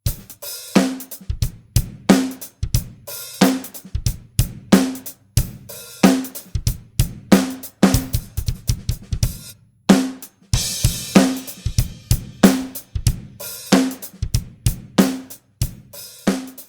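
Pearl e/Merge electronic drum kit playing a steady groove with one of its kit sounds: a snare backbeat about every 1.3 s over kick drum and busy hi-hat. A cymbal crash rings out about ten seconds in.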